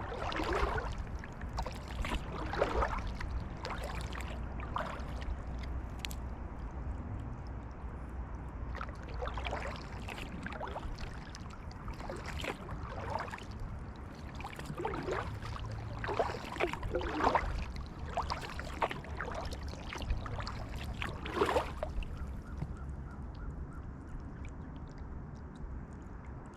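Kayak paddle blades dipping into and pulling through water in alternating strokes, each a short splash and drip, roughly one to two a second with a pause in the middle; the strokes stop near the end. A low steady rumble lies underneath.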